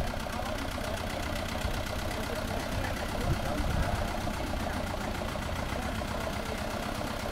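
Vintage tractor diesel engine idling steadily with an even, regular beat.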